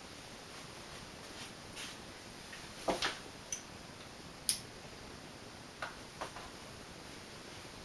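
Nadair five-blade top-mount spinner ceiling fan running on high speed, a quiet, steady rush of air. Scattered light ticks and clicks come at irregular moments over it; the loudest is about three seconds in.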